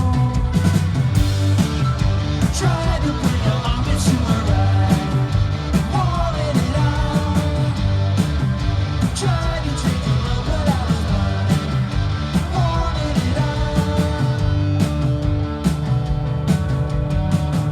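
Garage punk band playing live: drums, bass and guitars at full volume, with a singer over them.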